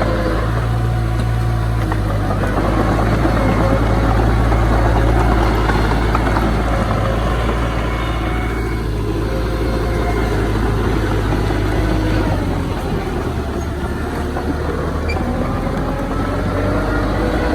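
Engine of heavy earthmoving machinery running steadily with a low drone; its low tone shifts about twelve seconds in.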